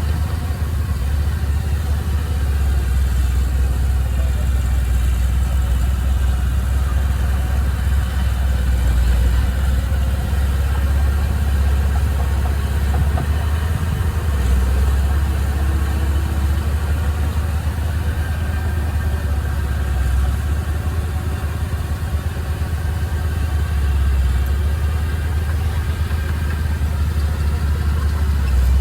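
Heavy earthmoving machinery's diesel engine running steadily with a deep, even low hum.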